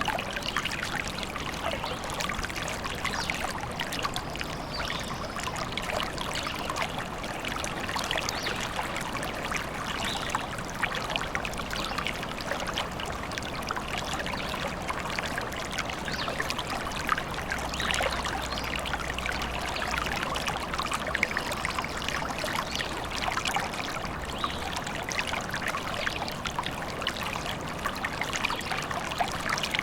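A small forest stream babbling and trickling over stones, a steady, continuous splashing.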